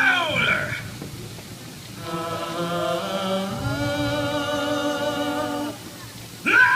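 A group of voices singing a long, held, wordless chord with vibrato, starting about two seconds in and stopping near the end. It comes after a shouted "Louder!" at the start.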